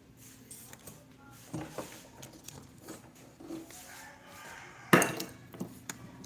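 Scattered light clicks and knocks of small hard objects being handled, with one louder clatter about five seconds in.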